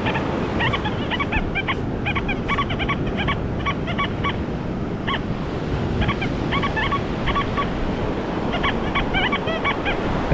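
Metal detector giving groups of short, quick, repeated beeps as the coil passes back and forth over a buried target, over a steady wash of surf and wind on a stormy beach.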